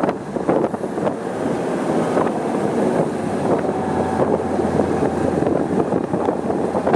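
Moving passenger train: a steady rumble and rattle of the running gear on the rails, full of irregular clicks and clatter, with wind buffeting the microphone. A faint steady tone comes in briefly midway.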